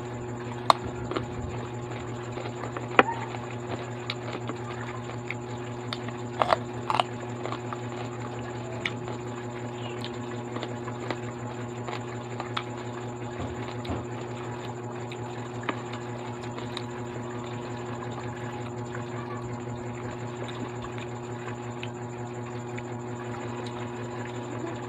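Close-up mouth sounds of someone eating snack foods such as cucumber sticks and fries: chewing with scattered sharp crunches, the strongest in the first seven seconds. A steady background hum runs underneath.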